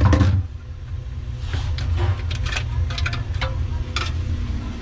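A short burst of noise, then scattered sharp clicks and light knocks of hand work as the old air sensor is cut free and pulled out of the unit, over a steady low rumble.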